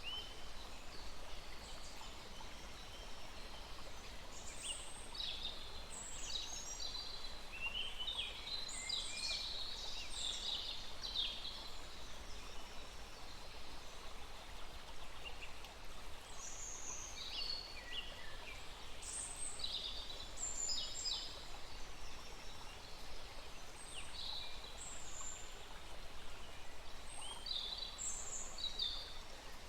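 Several forest birds calling in short, high chirps and trills scattered throughout, over the steady rush of a small stream.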